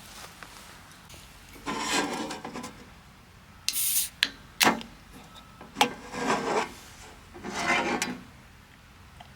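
Several short rasping scrapes, like things rubbed or dragged against wood, broken by a brief hiss and a few sharp clicks.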